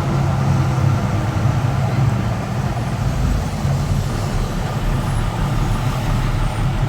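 Street traffic noise, with a large vehicle's engine running as a steady low hum over a constant rushing noise; a deeper rumble comes in about halfway through.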